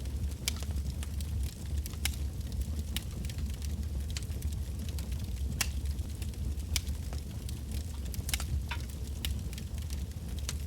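Wood bonfire burning: a steady low rumble of the flames with irregular sharp crackles and pops from the burning logs, a few each second.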